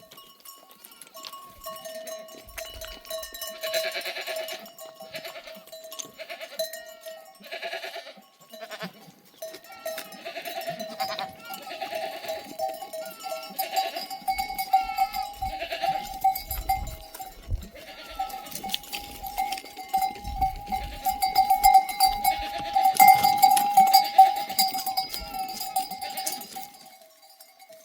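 Bells on a grazing flock of sheep and goats ringing continuously, with bleats now and then. The bells grow louder a little after the middle.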